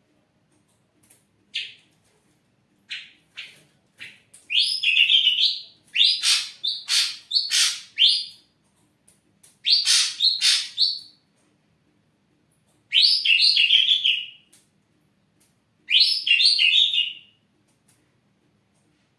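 Ashy drongo singing: a few single short notes, then phrases of rapid, loud notes about a second long, separated by pauses of a second or two.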